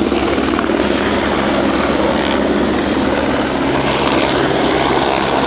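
Helicopter rotor and engine running steadily, with a continuous rapid chopping of the blades.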